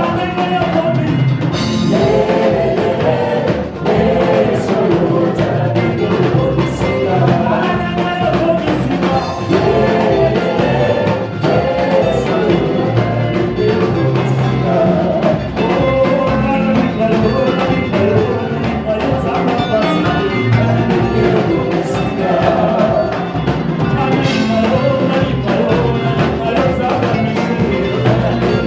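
Live gospel worship music: a band with drums and other instruments accompanying group singing.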